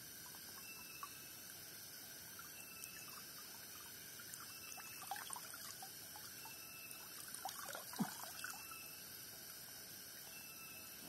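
Forest ambience: a steady chorus of insects with a short call repeating about every second and a half, over which come scattered small dripping, trickling clicks, thickest about halfway through and again near the end with one sharper click.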